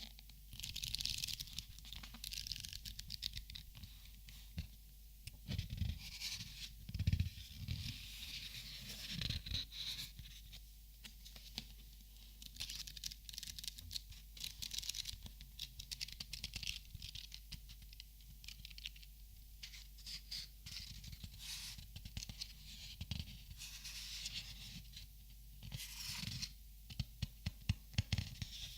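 Close-miked handling of Copic markers and their packaging: rustling and crinkling with scattered taps and clicks, and a quick run of clicks near the end.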